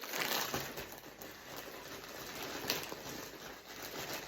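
Plastic packaging rustling and crinkling as a bag is opened, with a few sharper crackles.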